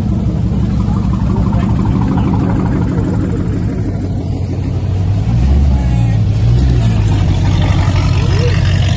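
Car engine running with a deep exhaust rumble, getting louder about five seconds in as it comes closer or is given more throttle.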